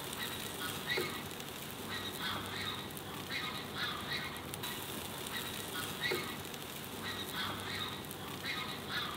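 Short bird calls repeating every second or so, over a steady hiss.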